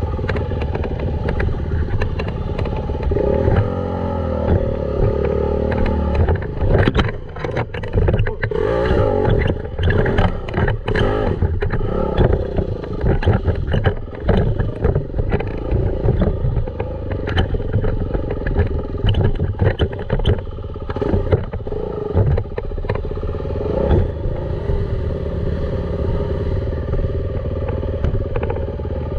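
Dirt bike engine running hard and revving up and down, with clatter and knocks from the bike working over rough ground.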